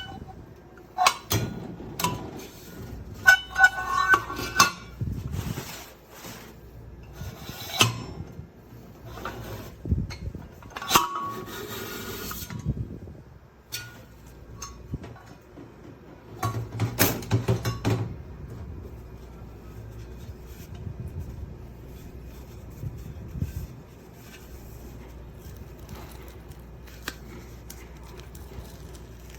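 Stainless steel French press being handled: irregular metal clinks, knocks and rattles, some with a short ringing tone. Busiest through the first half, with another flurry a little past the middle.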